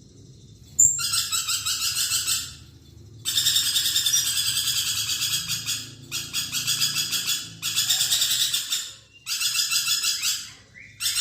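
Lorikeet (nuri perkici) giving loud, rapid, shrill chattering trills in about six bursts of one to three seconds each, with short pauses between.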